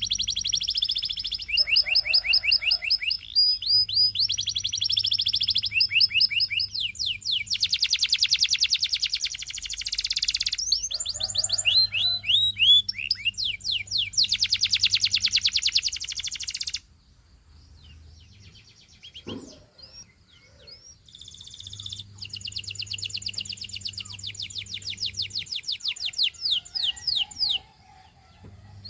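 Canary singing: long runs of fast, repeated high trilled notes, broken by a pause of about four seconds past the middle before the song starts again.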